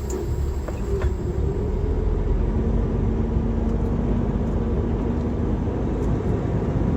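Steady low rumble of a heavy vehicle's engine, with a faint steady hum in the middle of the stretch.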